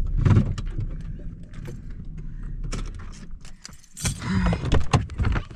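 Keys jangling and clicking, with scattered knocks and rattles and a louder cluster of clinks near the end, as a parked car's engine hum fades out in the first second.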